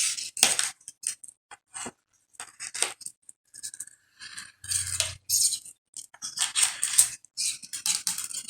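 Plastic pony beads and aluminium craft wire clicking and rattling as beads are threaded and the wire is handled, in irregular short clicks.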